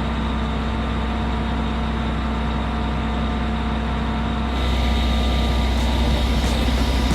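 Crane truck's engine running steadily, a low even hum that drives the crane's hydraulic pump. About two-thirds of the way through, a louder, brighter layer comes in over it.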